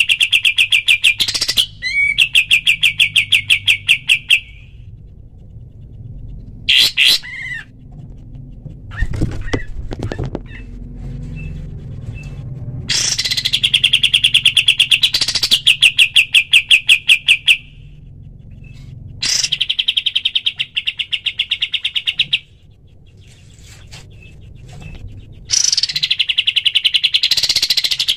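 Kapas tembak songbird giving its rapid 'shot' call: fast trains of sharp repeated notes, each train lasting a few seconds and broken by pauses of one to several seconds.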